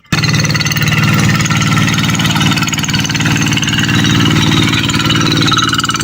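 Tractor engine running steadily, its firing pulses in a fast, even rhythm.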